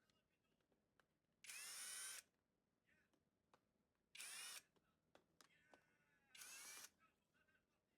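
A small handheld power tool's motor runs in three short bursts, each well under a second long, its pitch rising and falling within each burst. Faint clicks fall between the bursts.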